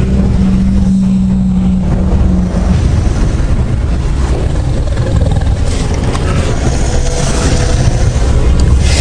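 Dark cinematic soundtrack: a held low drone gives way after about two and a half seconds to a deep rumble, with a hissing swell building toward a sudden hit at the end.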